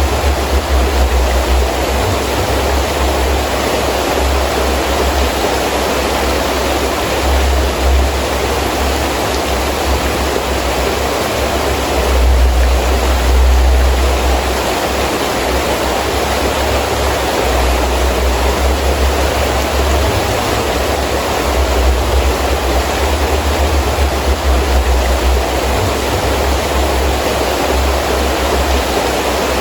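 Heavy rain falling steadily while strong wind rumbles in gusts, swelling about twelve seconds in.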